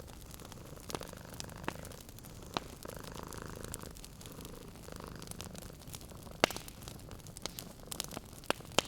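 A cat purring steadily over a wood fire crackling, with a few sharp pops from the fire, the loudest two coming late.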